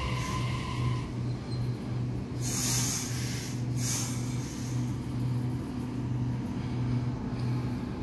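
Sydney Trains double-deck electric train running past the platform, with a steady low hum. Two short hissing bursts come about two and a half and three and a half seconds in.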